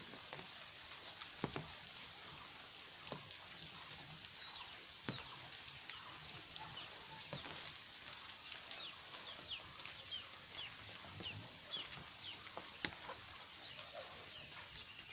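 Steady rain falling, with scattered drips and knocks. From about six seconds in, a bird repeats short, high, falling chirps several times a second.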